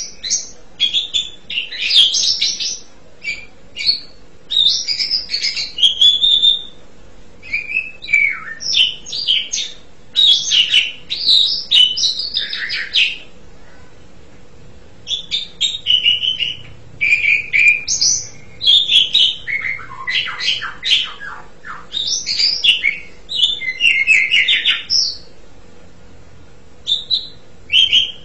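Asian pied starling (jalak suren) singing: a long run of varied chattering and whistled phrases, some sliding in pitch, broken by short pauses about halfway through and again near the end.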